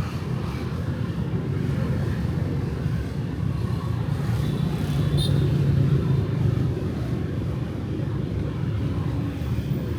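Night street traffic: a steady low rumble of cars and motorbikes passing, with a brief faint high tone a little past the middle.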